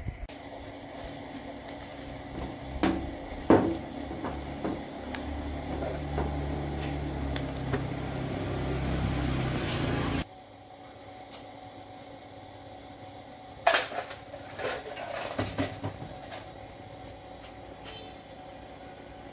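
An electric motor hums, building up for about ten seconds, then cuts off suddenly. Sharp knocks of hard parts being handled come before and after it.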